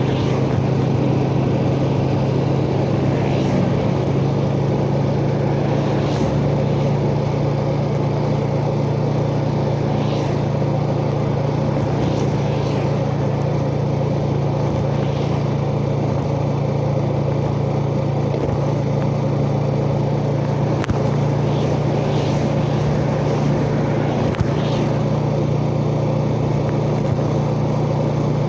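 Yamaha Jupiter Z motorcycle's single-cylinder four-stroke engine running at a steady, even speed while riding, with road and wind noise over it.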